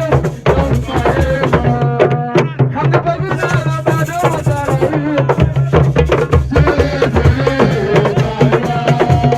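Senegalese assiko music: drums beat a dense, fast rhythm under a singing voice.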